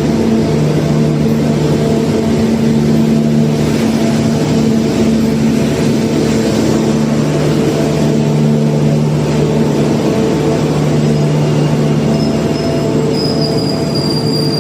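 Passenger train arriving: a diesel locomotive's engine running with a steady low hum over the rumble of the rolling train. About twelve seconds in, a thin high squeal of steel sets in and falls slightly in pitch as the train slows.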